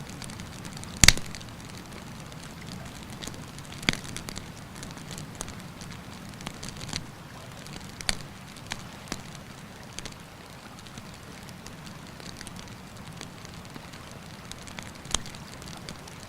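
Wood campfire crackling, with scattered sharp pops, the loudest about a second in, over a steady rushing background of a mountain river.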